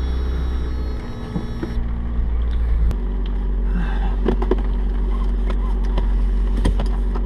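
Mazda Miata's 1.8-litre four-cylinder engine idling steadily, heard from inside the cabin as a low rumble, with scattered clicks and knocks in the second half.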